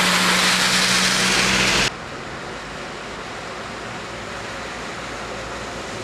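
A motor vehicle's engine running under loud rushing water noise, which cuts off abruptly about two seconds in, leaving a quieter steady rushing noise.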